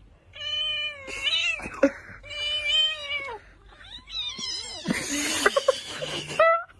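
A cat yowling in three long, drawn-out meows, followed by a stretch of hissy noise with a few sharp clicks and a short call near the end.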